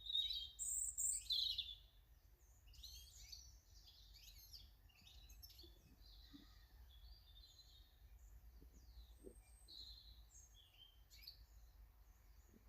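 Small garden birds chirping and calling, with a louder run of calls in the first two seconds, then many quieter short chirps in quick succession.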